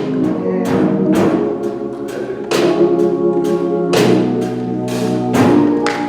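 Church band music: sustained keyboard chords that shift a few times, punctuated by sharp drum and cymbal hits about once or twice a second.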